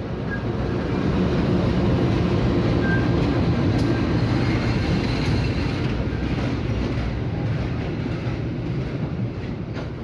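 Diesel-electric locomotive running, a steady low engine drone that grows louder over the first second and eases off slightly toward the end.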